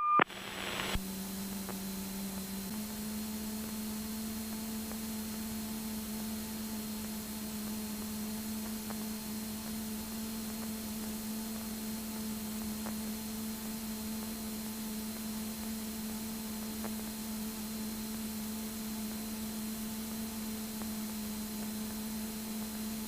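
Steady drone of a Cessna 172's engine and propeller in flight, heard as a low hum through the cockpit intercom feed; its pitch steps up slightly about three seconds in.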